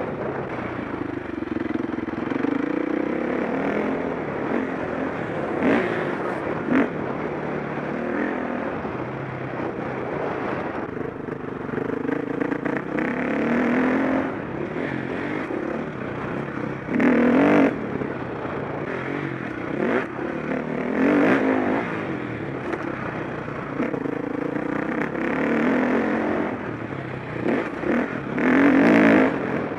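KTM 525 SX motocross bike's single-cylinder four-stroke engine being ridden hard, its note repeatedly rising and falling with the throttle, with a few short loud bursts of noise.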